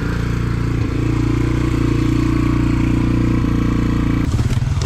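Yamaha dirt bike engine running steadily, its note changing abruptly near the end.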